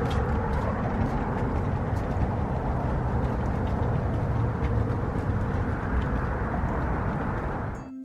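A steady low rumbling noise, cutting off abruptly near the end.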